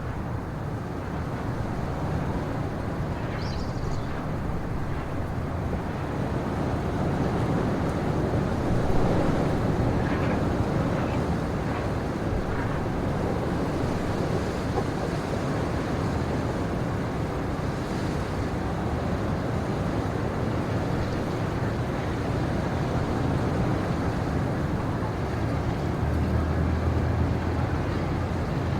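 Steady wind rushing through pine trees, swelling about a third of the way in and then easing, with a few faint short high sounds early on and around the middle.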